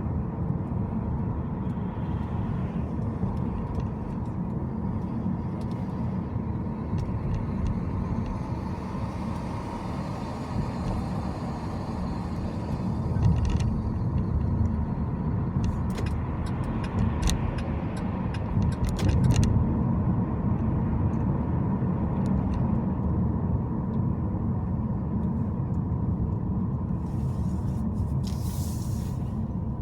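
Car driving along city streets: a steady low rumble of road and engine noise under a faint steady tone. About halfway through comes a run of short clicks, and near the end a brief hiss.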